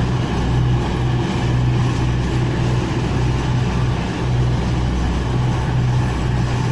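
Diesel engines of a Class 222 Meridian multiple unit running at the platform: a steady low hum with a haze of mechanical noise.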